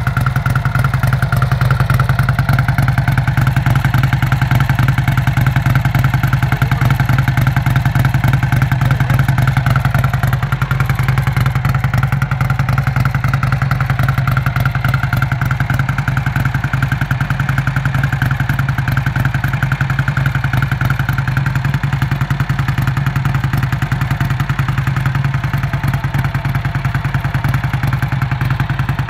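Vincent Black Shadow's 998 cc V-twin engine idling steadily through its exhaust, with no revving.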